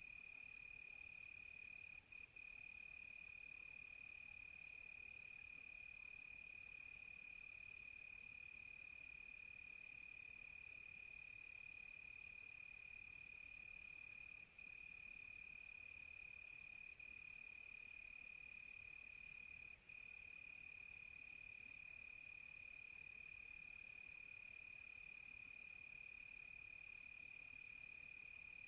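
Crickets chirping in a night chorus: one steady high trill, with a faster, fainter pulsed chirping above it that stops for several seconds midway and then resumes.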